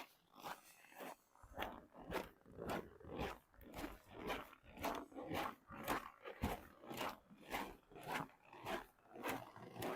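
Footsteps crunching in very cold, dry snow at a brisk walking pace, a little over two steps a second.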